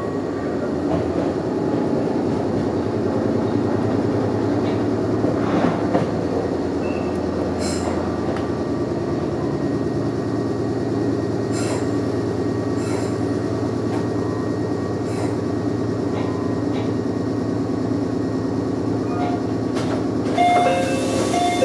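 Meitetsu 100 series electric commuter train running on the line, heard from the driver's cab: a steady rumble and motor hum, with scattered sharp clacks over rail joints and points. A few short tones come in near the end.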